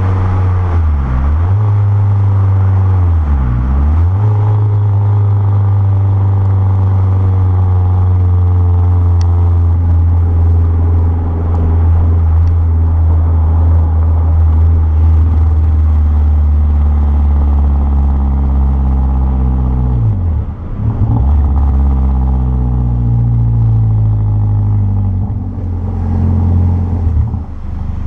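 Renault Clio 1.6 16v K4M four-cylinder engine running loud through a 2-inch straight-through exhaust, held at fairly steady revs. The revs dip sharply and recover about a second in, again about three and a half seconds in, and once more around twenty seconds in, with a slow sag in pitch through the middle.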